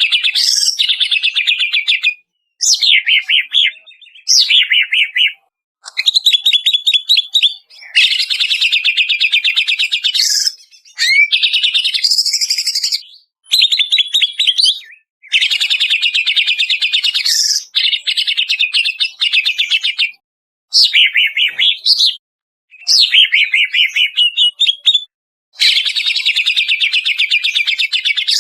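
Greater green leafbird (cucak ijo) song: loud phrases of fast trills and whistled notes that slide up and down, each lasting one to three seconds. Between the phrases are short gaps where the sound cuts off cleanly, as in a recording edited for use as a training master to set caged birds singing.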